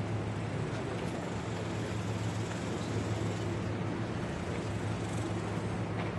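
Steady low engine hum over a constant background hiss, unchanging throughout.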